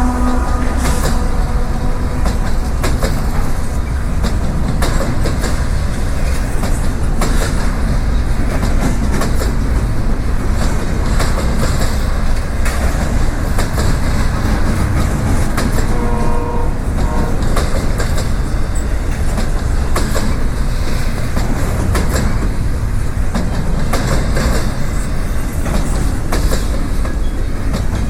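Freight train rolling past: a steady loud rumble of railcars with repeated clicking of wheels over the rails. A brief tonal note sounds about sixteen seconds in.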